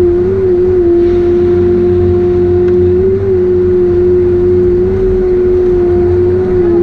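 Heavy forestry machine's diesel engine and hydraulics running steadily under load, with a strong steady whine over a low rumble, the pitch wavering slightly now and then.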